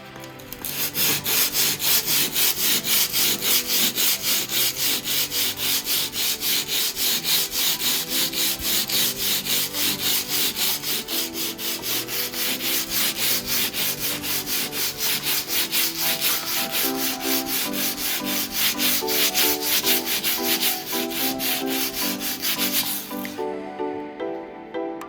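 Hand sanding a dried spackle patch on drywall: rapid, even back-and-forth rubbing strokes, a few a second, stopping about two seconds before the end. Soft background music runs underneath.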